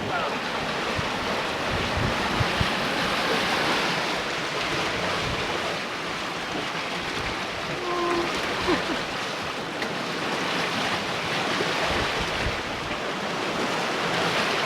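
Sea water rushing and splashing past a sailboat's hull as it sails, with wind buffeting the microphone in a few low gusts.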